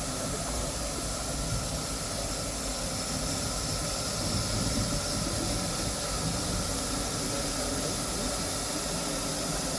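Mt Lyell No. 3 steam locomotive standing with steam hissing steadily, a constant hiss over a low rumble.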